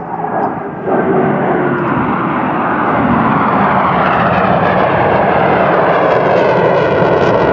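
Airplane engine noise from a low pass at an air show, growing louder with a jump about a second in, then holding steady and loud.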